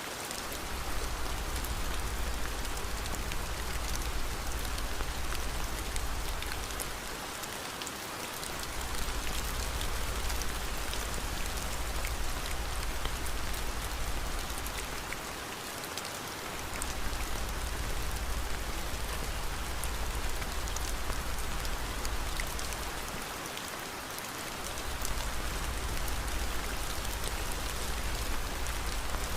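Steady rain falling, with a low rumble underneath that dips briefly and swells back about every eight seconds. Faint scattered crackles from a fireplace fire are mixed in.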